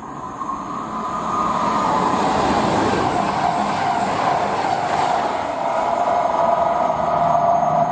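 East Midlands Railway Class 222 Meridian diesel-electric multiple unit running through the station at speed. Engine and wheel-on-rail noise builds over the first second or two and stays loud as the coaches go by. A tone in it drops in pitch as the train passes.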